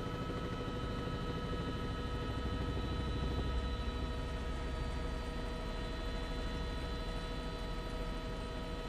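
Steady helicopter cabin noise: a low rumble and an even hiss, with several steady high tones held over them throughout.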